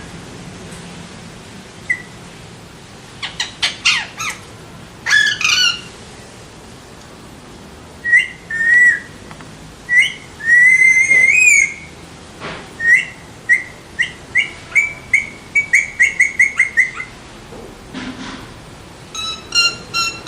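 Alexandrine parakeet giving loud, clear whistled calls: scattered single notes, one longer whistle that rises at its end, then a quick run of short whistles at about four a second, and another run near the end.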